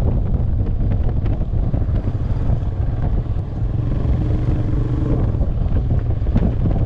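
Motorcycle with a barrel exhaust running steadily on the road, its low rumble mixed with wind buffeting the microphone.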